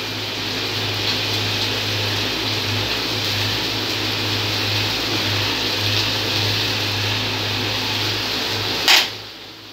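Mushrooms and broccoli sizzling steadily in a wok over a gas flame, with a low steady hum underneath. The sizzle cuts off sharply with a click near the end.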